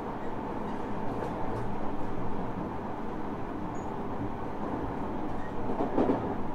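Tobu 10030 series electric commuter train running, heard from inside a VVVF-retrofitted motor car: a steady rumble of wheels on rail with a few faint clicks.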